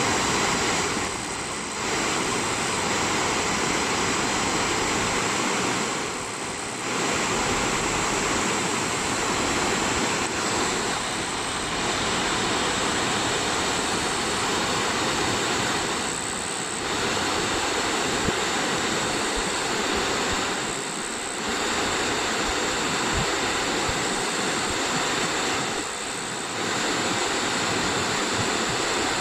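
Waterfall: a steady rush of falling water, dipping briefly in loudness about every five seconds.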